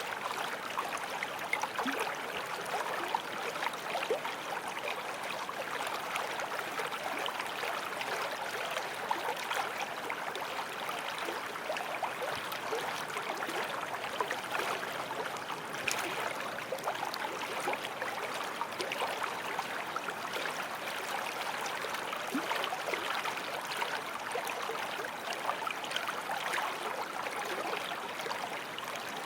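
Forest stream flowing over stones: a steady rush of water with lots of small splashes and gurgles.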